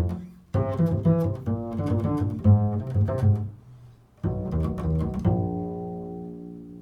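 Improvised solo instrumental music: short phrases of low-pitched notes with sharp attacks, then a long held note that slowly fades from about five seconds in.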